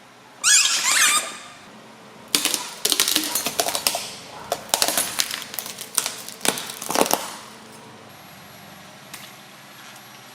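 A short squeaky chirp about half a second in. Then, for about five seconds, an irregular run of crackling snaps and crunches as brittle objects are crushed under a car tyre, before it goes quiet.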